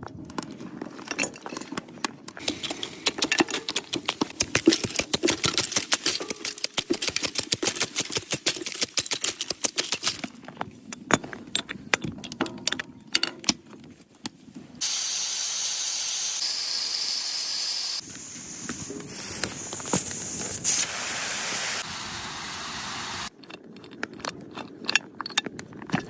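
Cooking chicken in a hot pan: dense crackling and clicking, then a steady sizzling hiss from about fifteen seconds in that stops abruptly around twenty-three seconds, after which the crackling returns.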